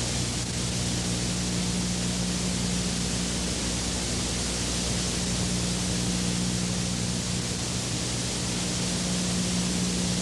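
Steady, even rushing noise with a low, steady hum underneath; it neither swells nor breaks off.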